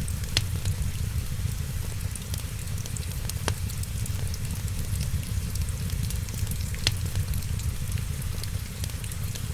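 Wood fire crackling in a fireplace, with fine continuous ticking, three sharp pops spread through, and a steady low rumble underneath.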